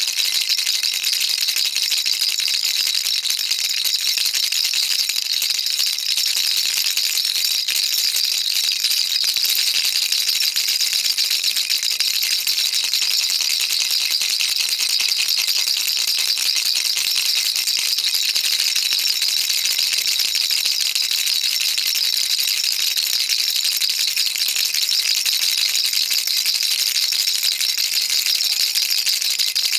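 Baby rattle shaken continuously, a dense, steady high-pitched shaking of small beads with no pauses.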